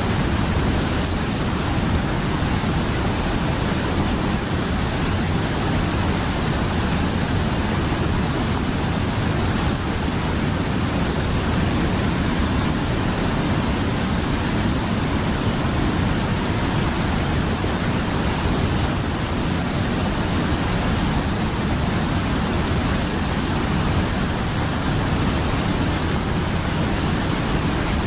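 Mountain river rushing steadily, a constant full roar of flowing water with no breaks.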